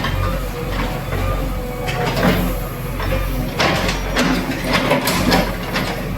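JCB 3DX backhoe loader's diesel engine running steadily while working, with irregular knocks and clatter of demolition debris several times.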